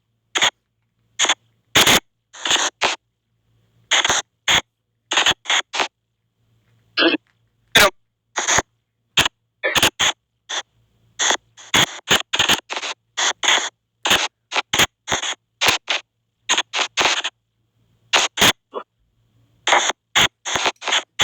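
A spirit-box app (SP White Noise Box, mode 7 with NR7 noise reduction) sweeping: short, choppy bursts of hiss and scrambled audio fragments, about two a second at uneven spacing, with silent gaps between.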